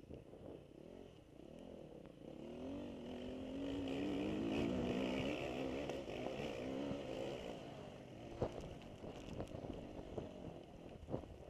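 Motocross bike engine revving up and down as it is ridden, loudest about halfway through, with a couple of sharp knocks near the end.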